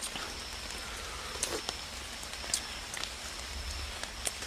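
Night-time forest ambience: a steady hiss with a faint high tone that comes and goes, and scattered small clicks and taps, the loudest about one and a half and two and a half seconds in.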